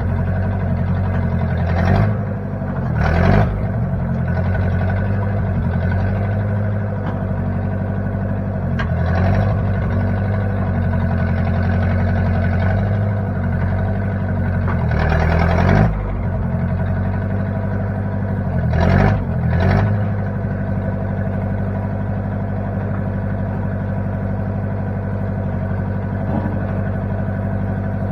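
Engine of a 1960 Case 540 backhoe running steadily, its note rising and falling briefly several times as the engine speed changes.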